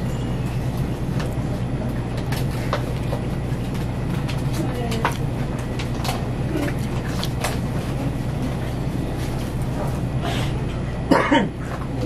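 Close-mouthed chewing of a breaded, fried bun, with small scattered clicks and crunches, over a steady low background hum. Near the end comes a short louder voice sound that falls in pitch, like an appreciative "mmm".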